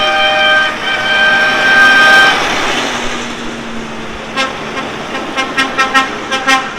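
Vehicle horns sounding from the passing tractor procession: a long horn blast held for about two seconds with a brief break, then from about four seconds in a quick series of short toots.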